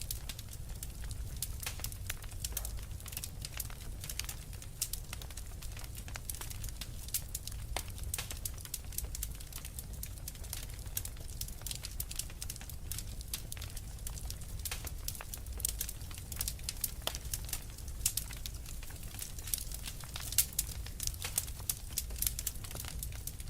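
Wood fire crackling and popping in a fireplace: a dense, irregular patter of sharp snaps over a steady low rumble, with a flurry of louder pops in the second half.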